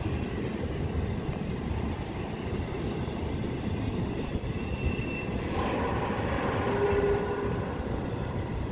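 Intermodal freight train's cars rolling past with a steady rumble. A few brief high-pitched tones come in past the middle.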